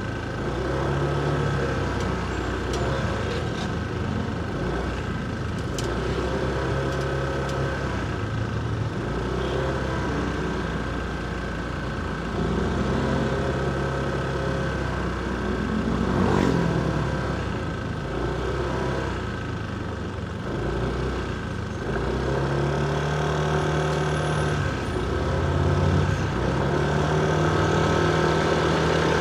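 Motorcycle engine running through city traffic, its pitch rising and falling as the rider speeds up and slows down, with other vehicles around. About halfway through, a sound sweeps down in pitch and back up.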